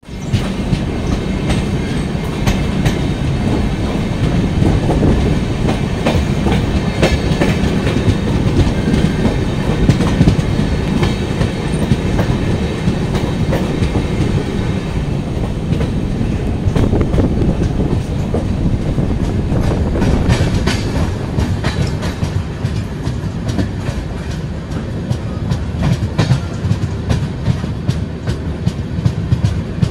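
Passenger train running on a curving track, heard from an open coach door: a steady loud rumble of wheels on the rails, with frequent clacks as the wheels cross rail joints.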